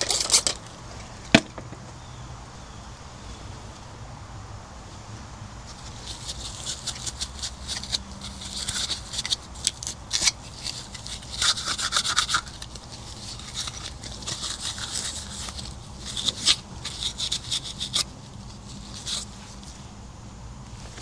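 Scrubbing a hard surface in quick back-and-forth strokes, in spells of a few seconds with short pauses, while the smoke stains are cleaned off a refrigerator. A single sharp click comes about a second in.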